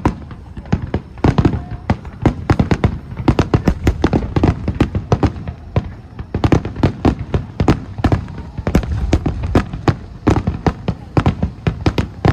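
Aerial fireworks bursting in a rapid, continuous barrage: many sharp booms and cracks, several a second, with deep rumbling echo between them.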